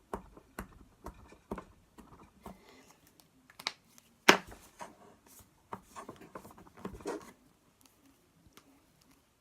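Slime being squeezed and kneaded by hand, making an irregular run of short sticky clicks and pops, the loudest about four seconds in.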